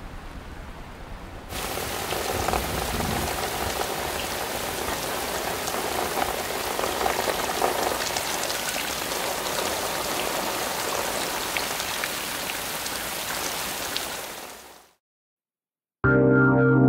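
Heavy rain falling, a steady hiss that grows louder about a second and a half in and fades away near the end.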